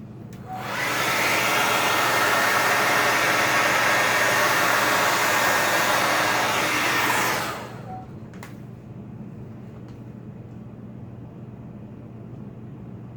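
Handheld hair dryer switched on about half a second in and blowing steadily at full power for about seven seconds, then switched off, its rushing noise dying away. A short click follows about a second later.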